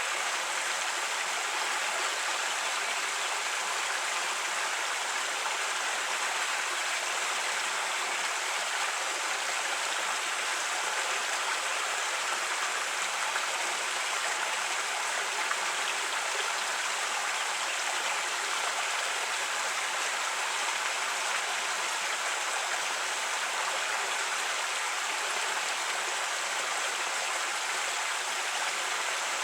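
Creek water flowing over rocks with a steady rushing and babbling.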